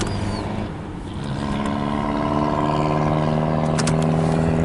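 An engine drone that grows louder over the first couple of seconds and then holds a steady pitch, which those present think sounds like a snowmobile. A few light clicks come near the end.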